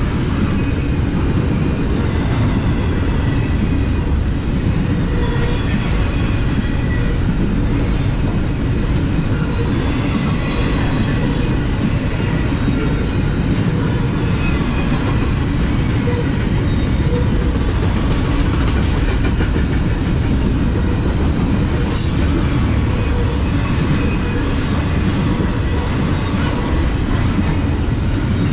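Double-stack intermodal container train rolling past close by: a steady rumble and clatter of steel wheels on the rails as the well cars go by, with a few brief high squeals.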